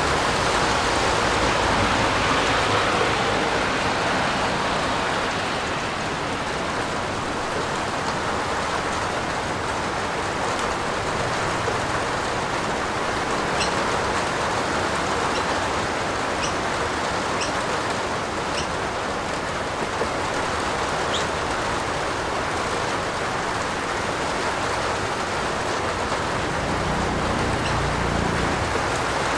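Steady heavy rain falling on a roof, an even hiss with a few faint drip ticks in the middle.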